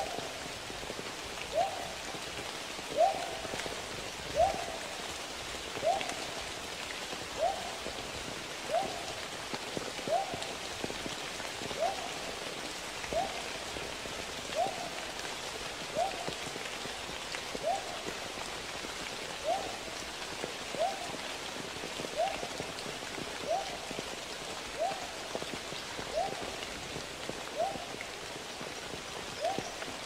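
A bird giving one short, hoot-like note over and over, about every second and a half, over a steady rush of water noise.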